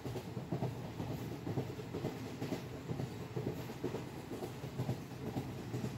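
Train running on the track: a steady low rumble with irregular clatter from the wheels.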